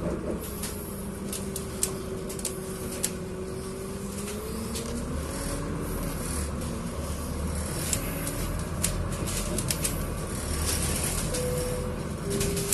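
Scania Citywide 12LF city bus heard from inside the passenger cabin: a steady low engine rumble with a whine that holds, then climbs in pitch about four to six seconds in, while light clicks and rattles come from the bus interior.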